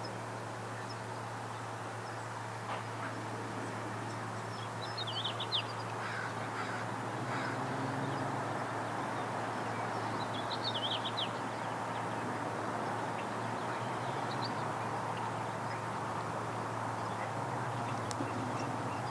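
Outdoor background with a steady low hum, and two brief clusters of quick, high chirping bird notes about five seconds in and again near the eleven-second mark.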